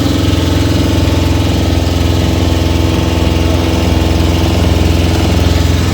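Small motorboat's engine running steadily while under way, a low even drone close by.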